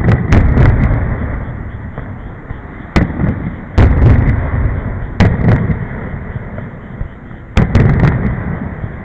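Aerial firework shells bursting overhead: a series of loud sharp booms, several coming in pairs a fraction of a second apart, each followed by a long rumbling tail.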